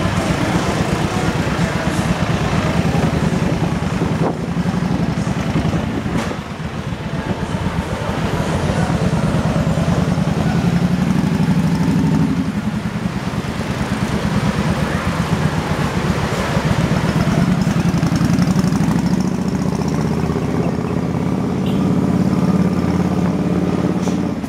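Motorbike engine running while riding, its pitch rising and falling a little with speed, under steady wind noise buffeting the microphone.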